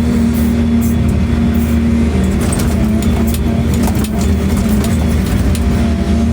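Excavator's diesel engine running steadily, with a few faint clicks and knocks over the drone.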